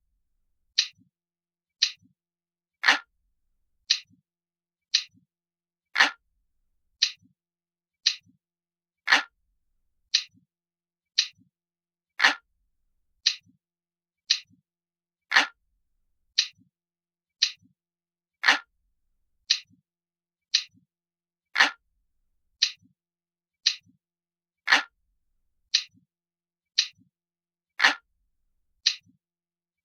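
Analog clock ticking steadily, about one tick a second, with every third tick louder and deeper. This is a recorded ticking loop.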